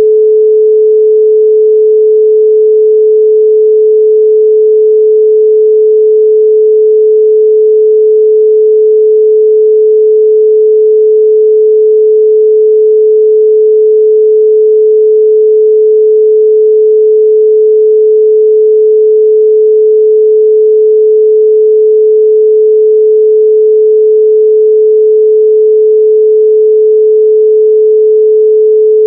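Continuous 432 Hz pure sine tone, held steady at one pitch and level.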